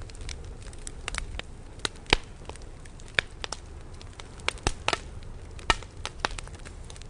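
Campfire burning: wood crackling with irregular sharp pops over a low, steady rumble of the flames, the loudest pops about two seconds in and near six seconds.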